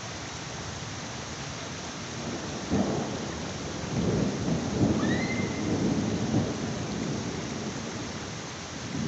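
Steady heavy rain with rolling thunder: a short thunderclap about three seconds in, then a longer, louder rumble from about four seconds that dies away by about eight seconds.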